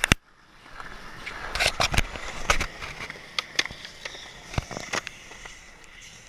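Skateboard wheels rolling on wet pavement, with a sharp clack of the board at the start and several more clacks and knocks over the next few seconds as the rolling swells and then fades.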